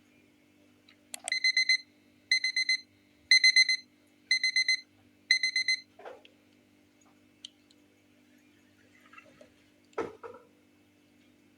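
Electronic alarm beeping: five bursts of rapid high-pitched beeps, about one burst a second, which then stop. A single knock follows near the end, over a faint steady hum.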